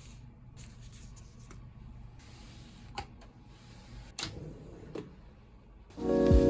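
Quiet room tone with three soft clicks, about three, four and five seconds in. Piano background music starts abruptly near the end.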